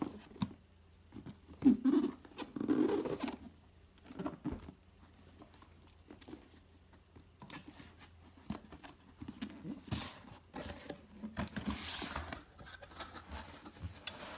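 Product box and packaging being handled and opened by hand: scattered taps, clicks, scrapes and rustles, with longer rustling stretches a couple of seconds in and again near the end.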